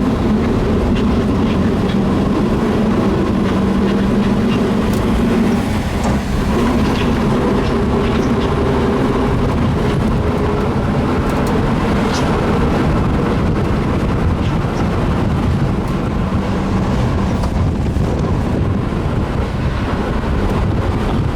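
VW Type 2 bus pulling away in low gear, its air-cooled engine running under load with grinding and scraping from a failing transaxle, which the owner believes has lost its main bearing.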